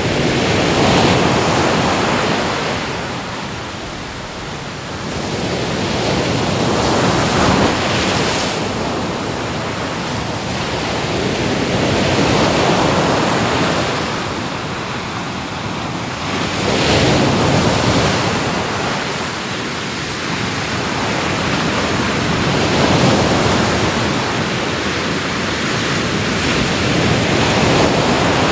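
Ocean waves breaking and washing onto the shore, the surf swelling and easing off about every five or six seconds.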